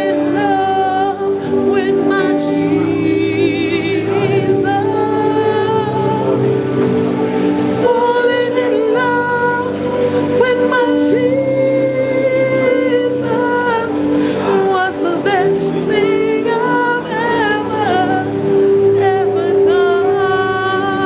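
Gospel worship music: singers with a choir, sustained vocal lines over a steady keyboard accompaniment.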